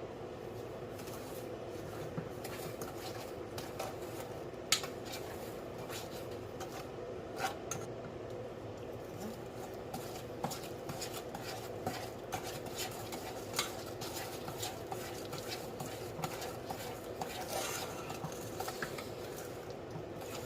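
Spoons stirring and scraping in two saucepans of syrup and butter, with scattered clinks against the pot sides over a steady low hum.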